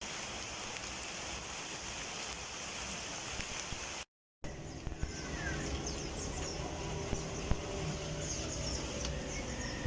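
Outdoor ambience: a steady hiss of background noise that drops out briefly about four seconds in, then comes back with high bird chirps over it.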